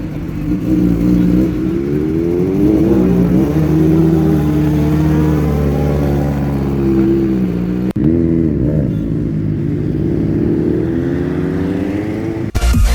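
Superbike engine running under way, its pitch repeatedly rising and dropping back as it accelerates and eases off. Music starts just before the end.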